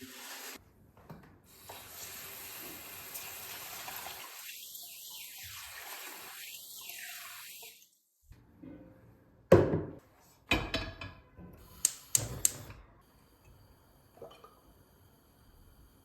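Kitchen tap running into a sink for about eight seconds, then shut off. A few seconds later come several sharp knocks and clinks, the first the loudest.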